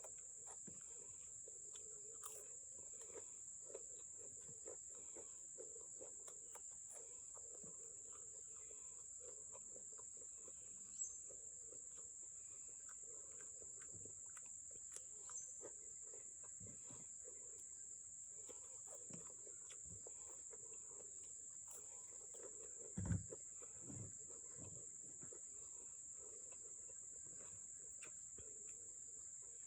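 A steady high-pitched insect trill runs under faint eating sounds: small clicks and mouth noises, with a couple of brief soft thuds about a third of the way in and again near the end.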